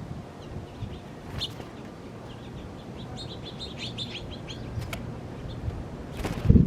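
Small birds chirping: a single chirp about a second in, then a quick run of short high chirps around the middle. A loud thump comes near the end.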